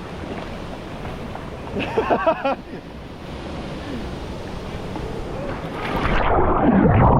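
Steady rush of waterfall water, with a brief voice about two seconds in. Near the end the water gets louder and muffled, sloshing close to the microphone.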